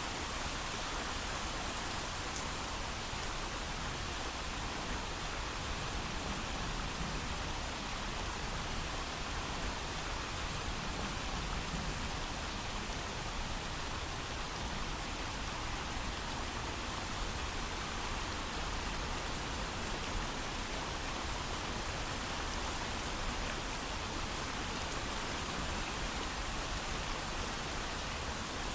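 Steady heavy rain falling without a break, an even hiss of dense drops with no thunder.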